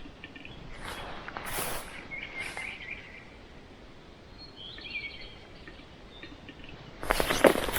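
Birds chirping thinly against outdoor background noise, broken by noisy rustling bursts with sharp cracks about a second in, again briefly, and loudest near the end.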